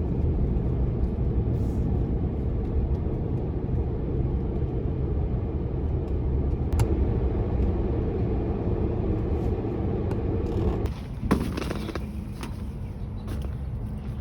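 A vehicle engine running nearby: a steady low rumble that drops and changes about eleven seconds in, with a single sharp click near the seven-second mark.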